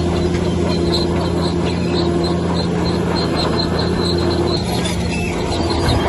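Heavy diesel construction machine running steadily with a low drone, overlaid by a quick, even series of high-pitched squeaks or chirps, about four or five a second.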